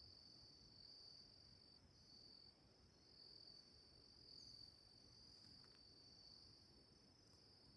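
Faint, steady high-pitched trilling of insects, an unbroken chorus with a low background rumble.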